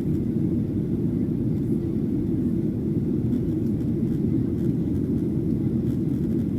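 Steady low rumble of a Boeing 737-800 in flight, its CFM56-7B turbofan engines and the airflow heard from inside the passenger cabin.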